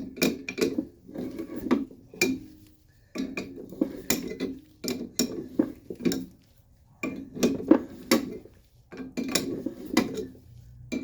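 Metal tools clicking and clinking in about five short bursts with brief pauses: a wrench loosening the nuts of a coil-spring compressor on a strut.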